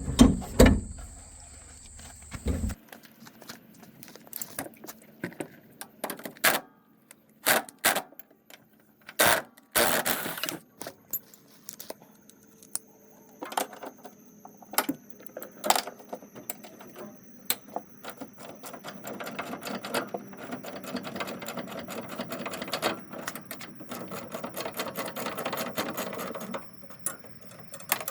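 Metal hand tools clicking and clinking as an 18 mm spanner works the shock absorber mounting bolts, with scattered sharp knocks and a run of rapid fine clicking near the end.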